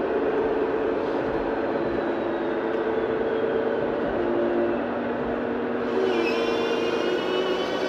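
Radio-controlled model truck running, a steady mechanical motor and drivetrain noise, with a higher whine coming in about six seconds in.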